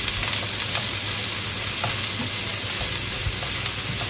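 Chopped onions, green chilies and curry leaves sizzling in hot coconut oil in a nonstick frying pan as they are stirred with a silicone spatula, a steady hiss with scattered small crackles.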